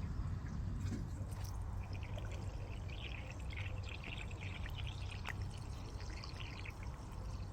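Water being poured onto garden plants and soil, splashing and trickling; it starts about two seconds in and stops near the end. A steady low rumble runs underneath.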